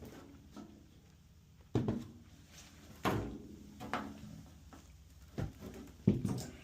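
Five sharp knocks, each under half a second, spaced roughly a second apart; the last is the loudest.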